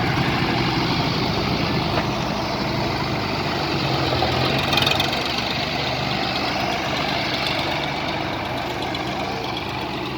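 A tractor's diesel engine running steadily at a low, even pitch.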